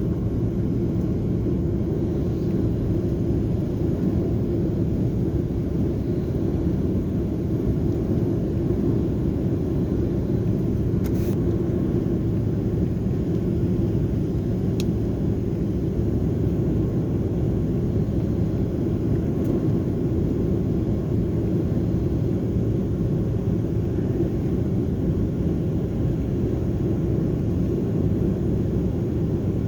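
Steady low rumble inside the cabin of an Airbus A330-300 airliner on final approach: engine and airflow noise. A couple of faint clicks sound about 11 and 15 seconds in.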